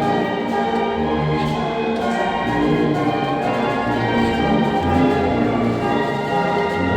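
A Sierra Mixe philharmonic wind band playing sustained chords, with many held notes sounding together over low bass notes that change every second or so.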